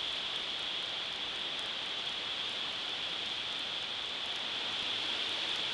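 Strong wind blowing through tree leaves, giving a steady rustling hiss without a break.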